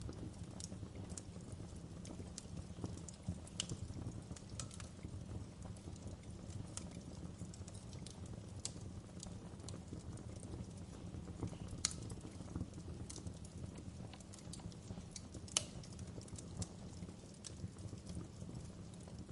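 Wood fire crackling in a fireplace: a steady low rumble under scattered sharp crackles and pops, with two louder pops past the middle.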